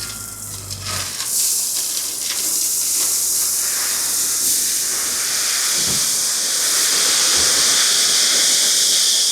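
Crushed gravel rushing and sliding as an excavator bucket load is taken: a steady hissing rush that builds and is loudest near the end. A low engine hum drops away about a second in.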